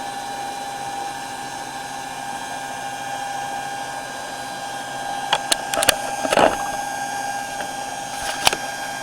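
Small electric water pump running steadily with a constant whine as it draws water from the jugs through the hose. A few sharp clicks and knocks come in just past the middle and again near the end.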